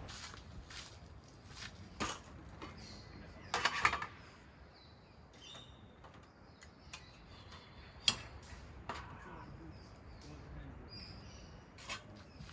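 Scattered sharp clicks and knocks, a short cluster of them near four seconds and the sharpest about eight seconds in, over faint bird chirps.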